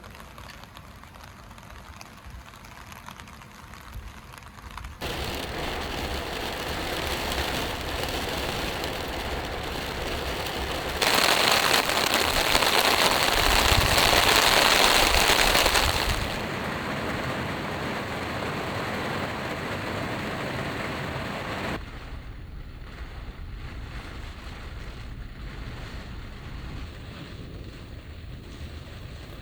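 Heavy rain pounding on the body of a Subaru Sambar kei van in a rainstorm, a dense steady hiss that swells sharply to its heaviest in the middle, then eases back in steps.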